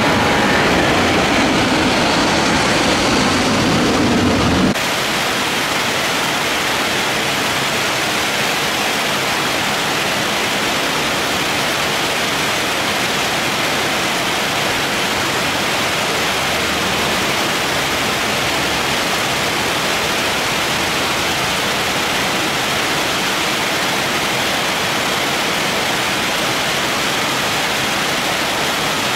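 Heavy rain falling in a steady, even hiss. For the first few seconds the jet engines of an airliner climbing away at go-around power sound over it, then cut off suddenly about five seconds in.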